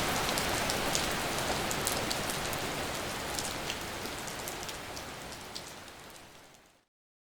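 Steady rain falling, a dense hiss with many individual drops ticking through it. It fades out gradually over the last few seconds and goes silent shortly before the end.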